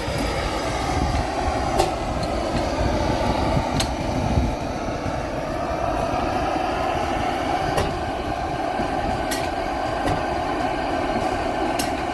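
Vintage 16 horsepower stationary engine driving a stone crusher: a steady mechanical clatter and grinding, with a few sharp knocks spread through it.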